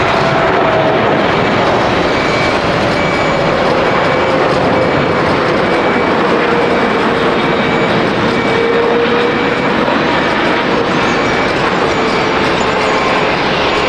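Jet airliner's engines passing close by: a loud, steady roar with a faint whine that slowly falls in pitch.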